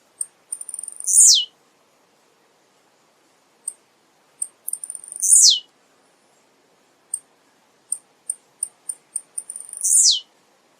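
Male blue-black grassquit (tiziu) singing three times: each song is a run of short high ticks leading into one loud high note that sweeps steeply down in pitch.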